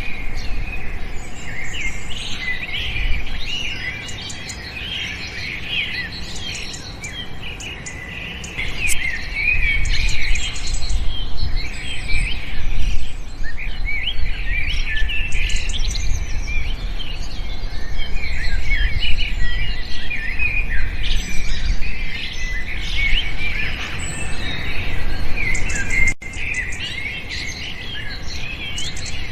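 Many small birds chirping and twittering at once, a dense chorus of short high chirps with a low rumble underneath.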